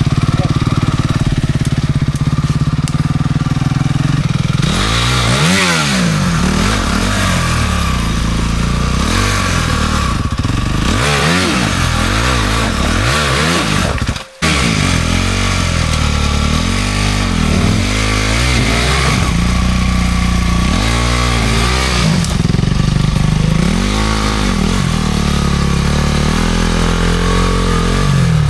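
Off-road enduro motorcycle engine running, first at a steady idle, then revved again and again in repeated rising-and-falling surges, typical of throttle work while climbing through rough terrain. The sound drops out briefly about halfway through.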